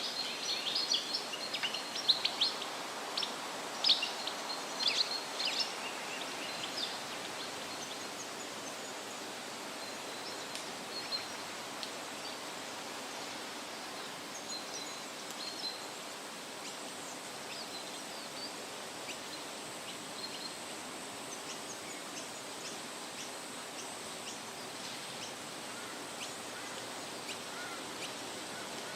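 Steady wind rustling through leaves with small birds chirping: a quick run of high chirps in the first several seconds, then scattered, fainter calls.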